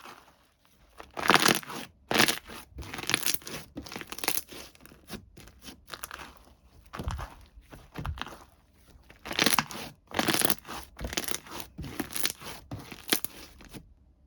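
Plastic packaging crinkling, crunching and tearing in irregular bursts as slime packages are handled and opened; the noise cuts off abruptly near the end.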